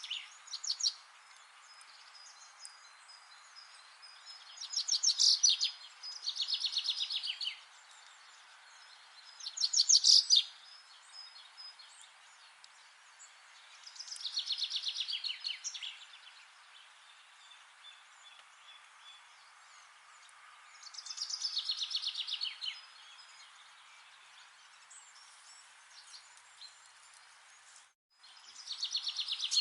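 A songbird singing short phrases of rapid, repeated notes, one phrase every few seconds, over a steady background hiss. The sound cuts out for an instant near the end.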